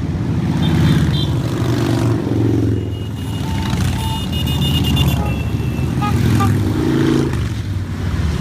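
A stream of motorcycles riding past close by, one after another, their engines swelling and fading as each bike goes by.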